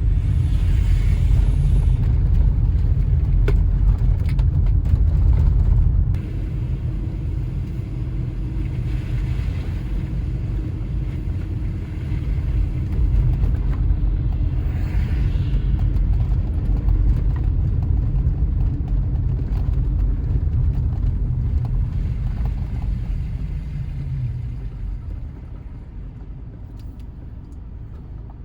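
Car driving on snow-covered roads, heard from inside the cabin: a steady low rumble of engine and tyres. It drops a step about six seconds in and fades lower near the end as the car slows to stop.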